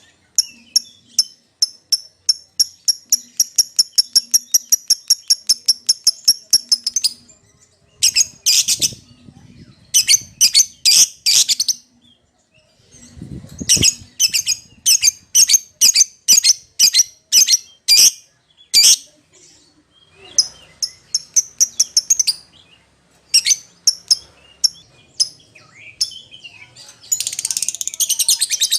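Lovebird calling: shrill, high chirps in fast runs of about six a second, in bouts with short pauses between them. Near the end they break into dense, unbroken chatter. These are calls to a companion or rival.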